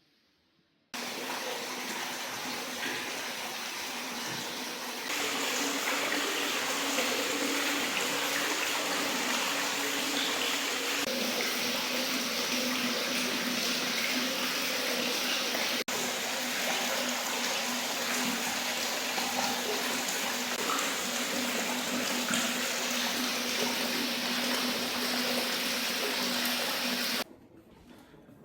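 Water running and pouring steadily, a continuous rushing that starts abruptly about a second in, changes level several times, and cuts off near the end.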